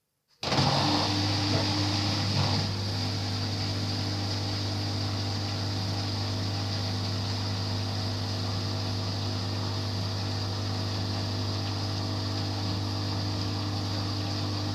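LG washing machine starting up suddenly with a steady low hum and hiss. It is louder for the first couple of seconds, then runs evenly.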